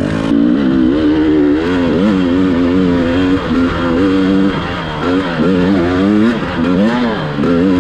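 Two-stroke dirt bike engine revving up and down repeatedly as it is ridden, its pitch rising and falling in quick surges.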